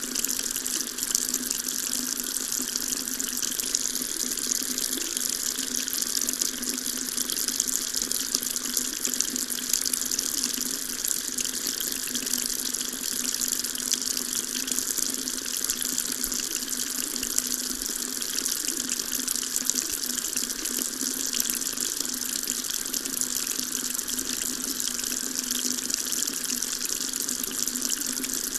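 Water running steadily from a tap into a sink, a continuous splashing rush with no breaks.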